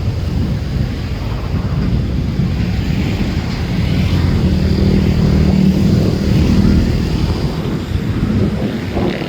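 A steady low engine rumble that swells with a held drone in the middle and eases near the end.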